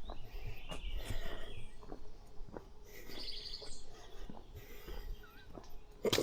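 Small birds chirping, with a fast trilling call about three seconds in, over footsteps on a trail; a sharp knock near the end.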